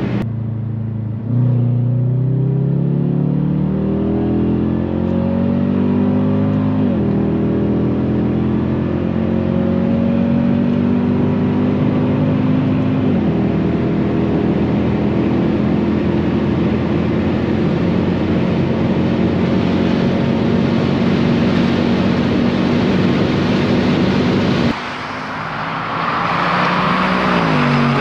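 Jaguar XFR's supercharged 5.0 V8 accelerating hard through the gears: the engine note climbs, drops at an upshift about seven seconds in, climbs again and drops at another upshift about thirteen seconds in. It then holds a high, slowly rising note at speed. Near the end the engine note breaks off abruptly and a rushing noise follows, with the engine pitch falling.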